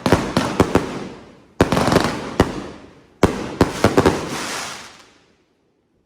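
A 1.5-inch, 88-shot fireworks cake firing its shells: sharp bangs in quick clusters of two to four, each with a fading tail. The last bangs die away about five seconds in, as the cake finishes.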